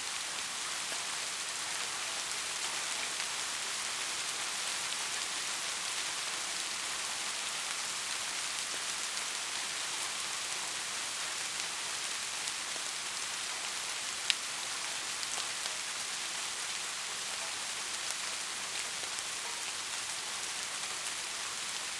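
Steady rain: an even hiss of many falling drops, with one sharp tick about two-thirds of the way in.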